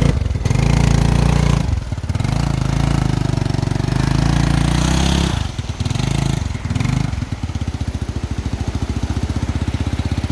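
A small engine running at low revs, dipping briefly twice and picking up again, then settling into a slow, even run of firing pulses near the end.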